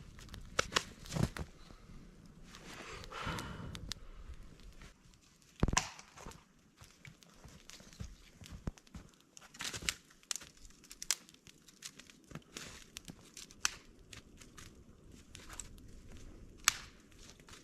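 Irregular clicks, knocks and crinkling, like things being handled, with one heavier thump about six seconds in.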